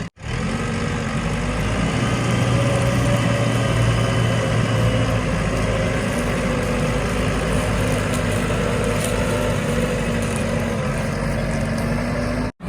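Diesel engine of heavy earth-moving machinery running steadily, its pitch holding nearly constant.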